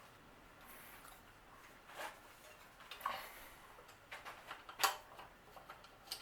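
Scattered light clicks and taps of tools and bicycle parts being handled during a teardown, irregular, with the loudest click near the end.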